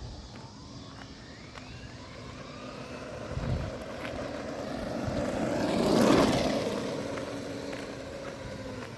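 Electric RC monster truck (Traxxas Maxx) driving past: a motor whine and tyre noise grow steadily louder, peak about six seconds in as it passes close, then fade away.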